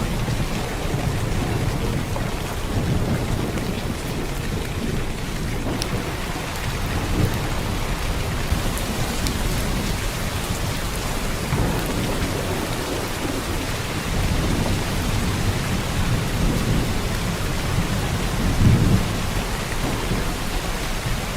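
Heavy downpour of rain, a steady dense hiss, with low rumbles swelling every few seconds, the loudest near the end.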